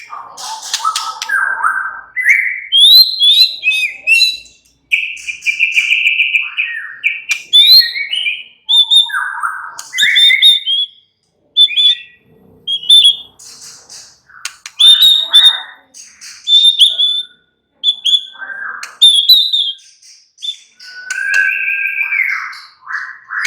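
White-rumped shama (murai batu) singing: a varied run of loud whistled phrases, fast chattering notes and sweeping slurs, delivered in short bursts with brief pauses between them.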